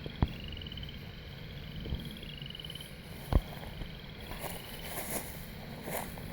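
Short pulsed trills from a small calling creature, repeated about once a second and each rising slightly in pitch, over outdoor background noise; a sharp knock comes early, and a louder one about three seconds in.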